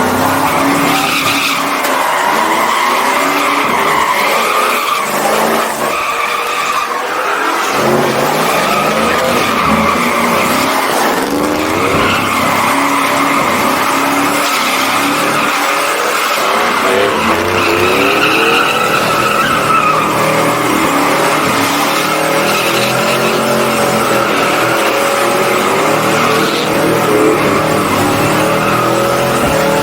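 A truck doing a burnout: the tires squeal steadily while the engine is held at high revs, its pitch wavering up and down.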